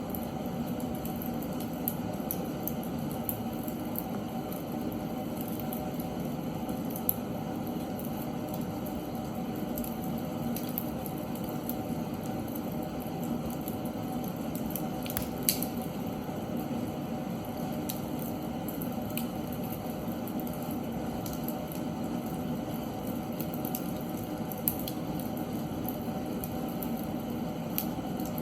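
Seasoned oak logs burning in a fireplace: a steady hiss and low rumble of the fire with constant small crackles and a few louder, sharper pops.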